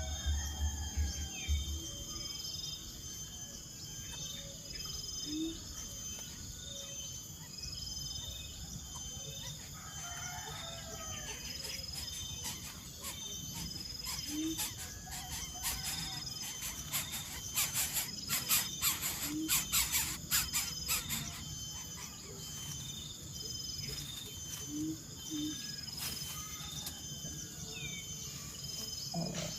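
Insects chirping in a steady, evenly pulsing rhythm, with scattered bird calls and a few short low notes. A run of quick clicks and rustles comes about halfway through.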